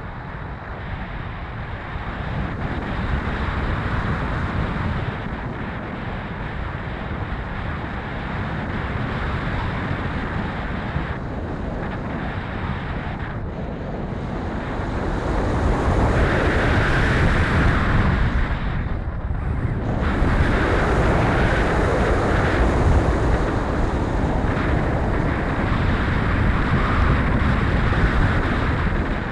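Strong wind buffeting the microphone, a rough rushing noise that grows louder about halfway through.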